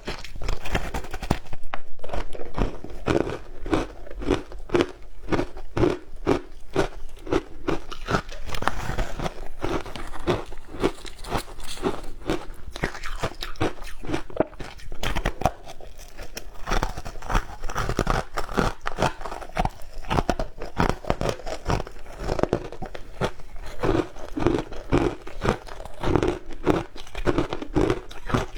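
Close-up crunching and chewing of shaved ice, many crisp crunches in a steady chewing rhythm of about two to three a second.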